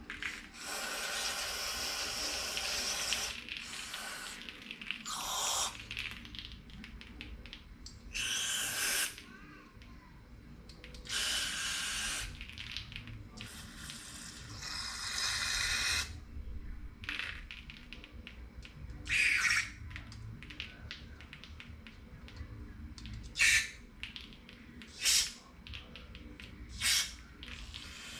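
Repeated hissing spray bursts, about nine of them, from under a second to about three seconds long, the last few short and sharp, as carburetor parts and jets are sprayed clean.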